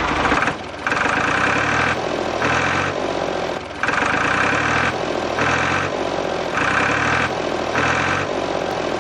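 Engine sound of a DIY mini tractor idling with a chugging rhythm that pulses about once a second.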